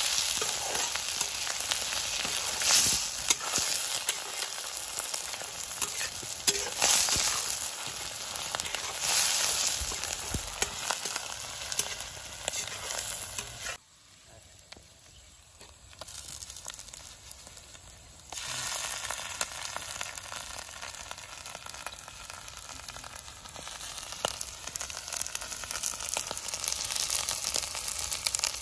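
Snails, onion and green chilies sizzling in oil in a black iron wok, with a steel spatula scraping and stirring through the first half. The sizzle drops away for a few seconds in the middle, then carries on steadily.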